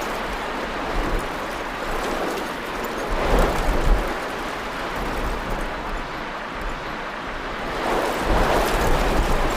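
Storm wind gusting hard across the microphone: a loud rushing noise with a deep rumble, swelling about three seconds in and again near the end.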